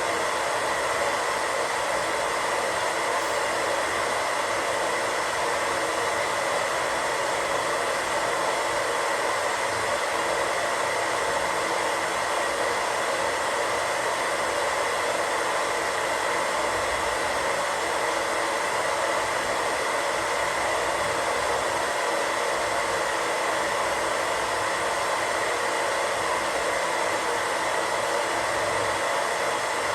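Radio static: a steady, even hiss of white noise.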